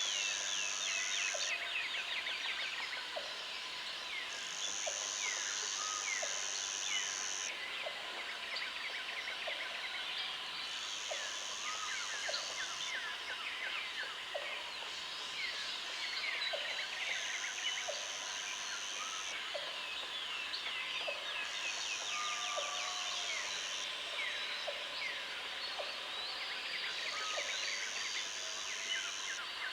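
Countryside ambience full of wild birds chirping and calling over one another, with a high, even buzzing trill that sounds in six bursts of a couple of seconds each.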